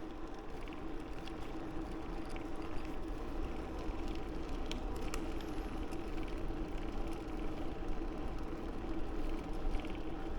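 Steady running noise of a bicycle ride: wind buffeting the microphone and tyres humming on the paved path, with a constant low hum and a couple of faint clicks about halfway through.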